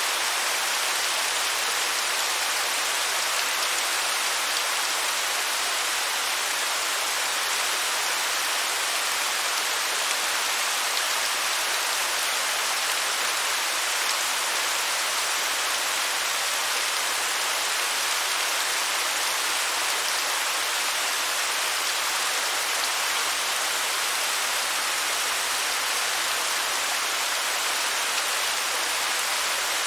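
Waterfall: a steady, even rush of falling water, bright and hissy with little deep rumble.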